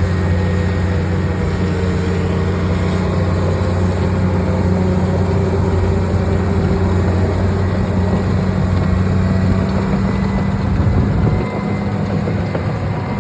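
Komatsu D65PX-16 bulldozer's diesel engine running with a steady deep drone. About ten seconds in the lowest part of the drone drops away, and a moment later the sound gets a little quieter.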